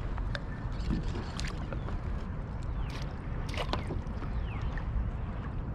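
Steady low wind rumble on the microphone and water against a kayak, with scattered small splashes and clicks as a hooked hickory shad is reeled in alongside the boat.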